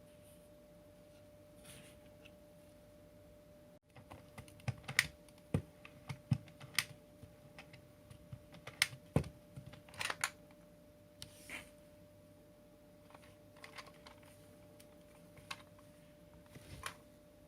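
Irregular small plastic clicks and knocks as parts of a cordless stick vacuum are handled and fitted together. The clicking starts about four seconds in and comes in uneven clusters.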